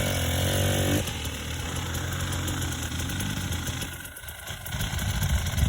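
Enduro motorcycle engine running near idle. Its pitch wavers in the first second, then it runs steadily, gets quieter about four seconds in, and gives a short loud blip near the end.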